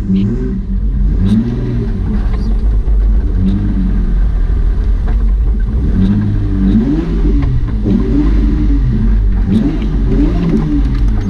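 BMW E30 325i's 2.5-litre straight-six engine heard from inside the cabin, its revs rising and falling again and again under short bursts of throttle while the car moves slowly.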